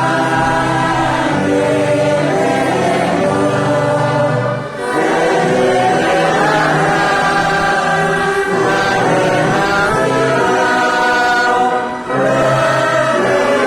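Congregational hymn: many voices singing together with orchestra accompaniment, in long held phrases with a short break between them twice.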